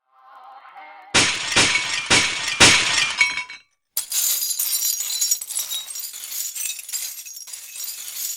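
Breaking glass: about four loud crashes of glass smashing in quick succession, then a longer stretch of shattering and tinkling fragments.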